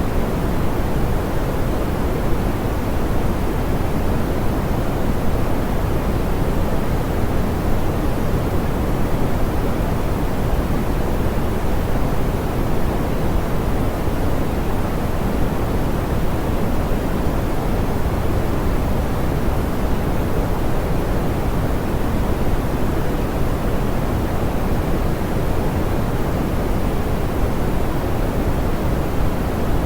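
Steady, soft pink noise: an even rushing hiss weighted toward the low end, with high frequencies rolled off, unchanging throughout.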